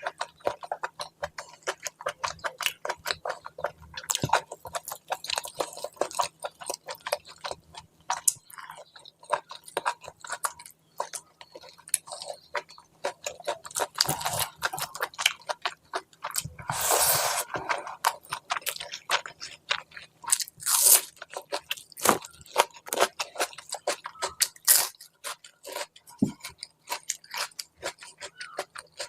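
Close-miked eating: steady chewing with many quick wet mouth clicks and smacks. There is a louder, longer noisy sound about 17 seconds in and a short loud one near 21 seconds.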